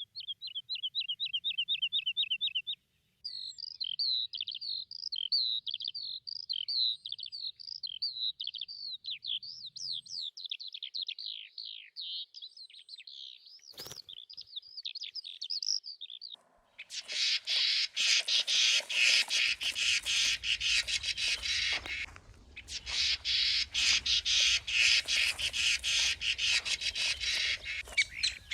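Songbirds singing: a fast trill of repeated notes, then a long, continuous warbling song, then a dense chattering chorus of many birds in the second half. A single sharp click comes around the middle, and a low rumble sits under the chorus.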